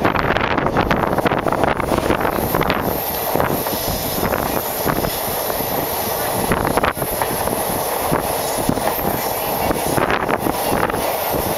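Passenger train running along the track, heard from aboard a coach: a steady rumble and rush of wheels on rails with a few sharp clicks, one about seven seconds in and others near the end.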